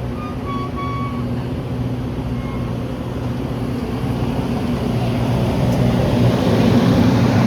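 Diesel locomotive engine running with a steady low drone, growing louder through the second half as the rumble of the train builds. A few short high tones sound in the first second or two.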